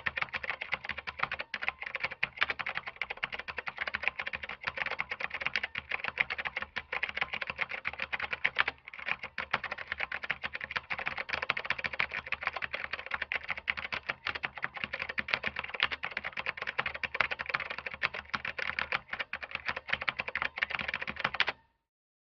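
Double-side bottle labeling machine running, a fast continuous clatter of clicks with a brief break about a third of the way through, cutting off abruptly near the end.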